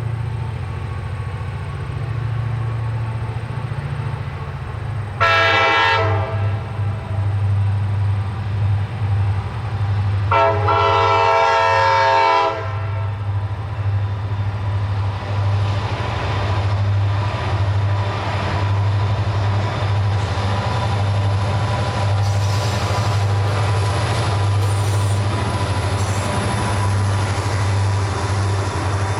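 EMD diesel locomotive passing with its engine running in a steady low drone; the multi-chime air horn sounds twice, a short blast about five seconds in and a longer one about ten seconds in. After that come the wheels of the passing train rolling on the rails.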